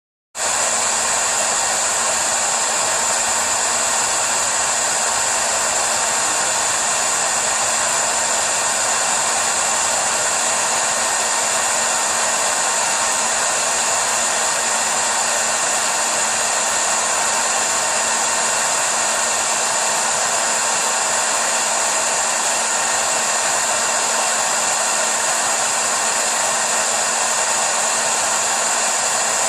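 Hair dryer blowing steadily, with a low hum and a high whine over the rush of air; it comes on abruptly just after the start and runs unchanged.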